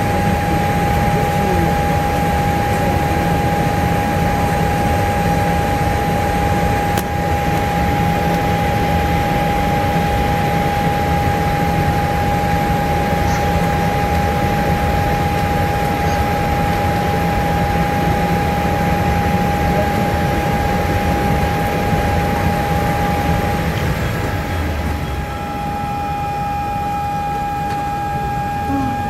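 Steady cabin noise inside a Boeing 787-8 Dreamliner airliner: an even rush of air with a low rumble and a constant high whine. The sound eases a little near the end.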